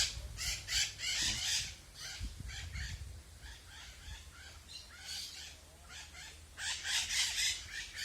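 A flock of parrots and parakeets screeching in harsh, rapid calls, loud in the first second and a half, fainter in the middle, and loud again near the end. A low rumble runs underneath.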